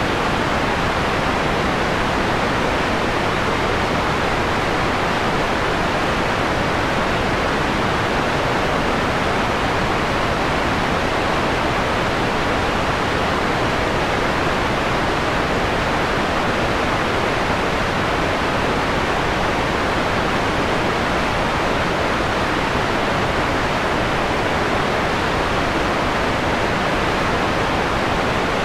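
Steady, electronically generated white noise, filtered so the top end is softened into a mellow hiss. It is even and unchanging throughout.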